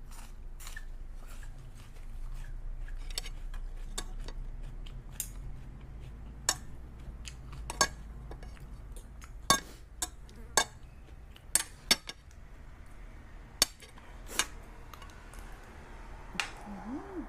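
Cutlery clinking and tapping against dishes in scattered sharp clicks, most of them in the second half, over a low steady hum.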